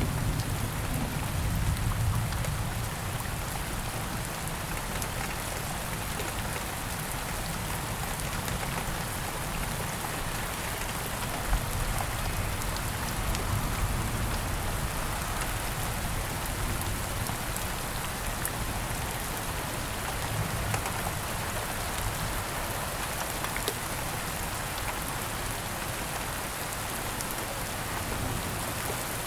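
Rain falling steadily, with a few sharper drops landing close by. A low rumble of distant thunder dies away in the first few seconds.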